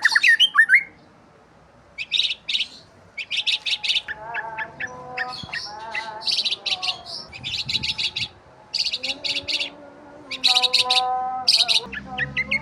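Small songbirds chirping in quick bursts of very rapid high notes, each burst about half a second long, with lower, held warbling notes between the bursts.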